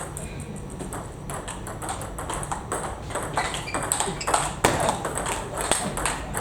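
Table tennis ball clicking off bats and table in rallies: many short, sharp, irregular clicks.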